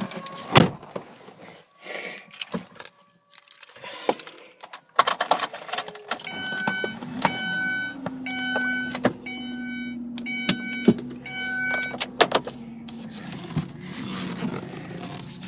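Keys rattling and door and cabin clicks, then an evenly repeating electronic warning chime from the 2003 Mazda Tribute's dash, about one and a half chimes a second for several seconds from about halfway in. A steady low hum runs underneath the chimes and stops shortly after them.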